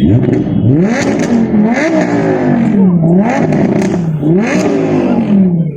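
An engine revved repeatedly while standing: its pitch shoots up and then sinks back, about four times, roughly once a second.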